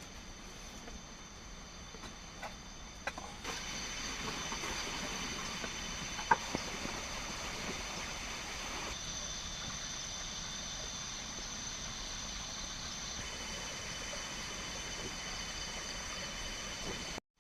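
Forest ambience: a steady, high-pitched insect drone made of several held tones over a light hiss, growing stronger about three and a half seconds in. A few scattered clicks and one sharp knock come about six seconds in.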